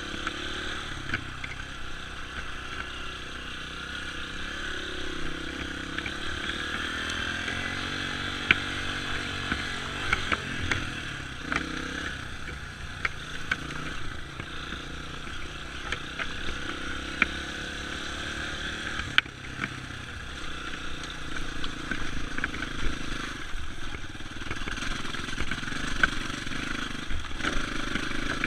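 Dirt bike engine running while the bike is ridden, its pitch rising and falling with the throttle, with sharp clicks and knocks here and there.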